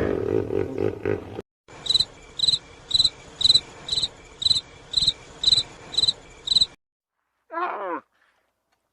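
Animal calls: a lower call that ends about a second and a half in, then a high chirp repeated about twice a second for some five seconds, and a short falling call near the end.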